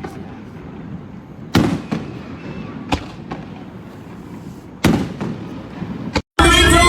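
Fireworks going off: three loud sharp bangs with smaller pops between them, over a continuous crackling rumble. Near the end the sound cuts off abruptly, then music with singing starts.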